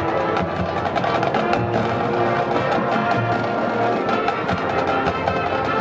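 Marching band playing, sustained wind chords over busy mallet and drum percussion.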